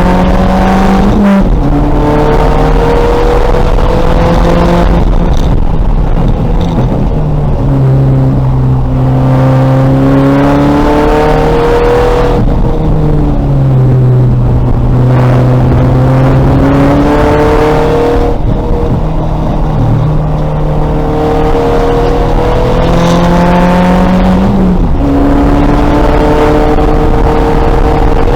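A 2000 VW Golf race car's engine under hard throttle at racing speed. The pitch climbs slowly and then drops sharply at several points as the car shifts gears, with wind and road noise underneath.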